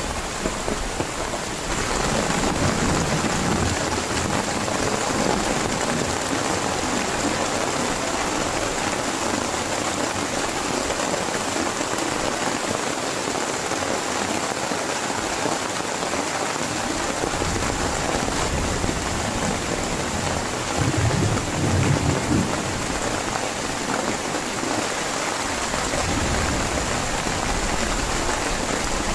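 Heavy rain falling steadily, getting louder about two seconds in. A low rumble of thunder comes about two-thirds of the way through.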